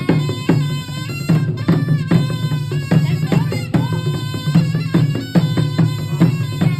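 Traditional Chăm dance music: a reedy, nasal wind instrument plays a melody over a steady low drone, with hand drums striking in a quick, repeating rhythm.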